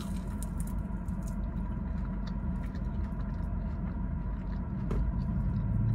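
Close-miked chewing of a breaded fried cheese bite, with faint scattered clicks, over a steady low hum. A low rumble swells near the end.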